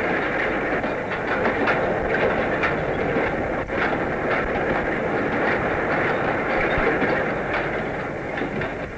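Old reel-to-reel tape recording of a steam train running along the track, a steady rumble with repeated clicks of the wheels over rail joints, fading down near the end.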